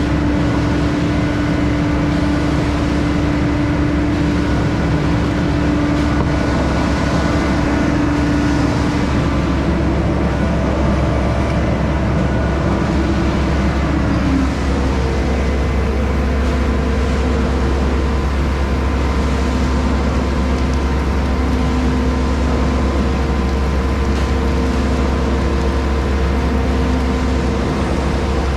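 Heavy equipment engine running steadily under load. About halfway through, its pitch drops slightly and settles.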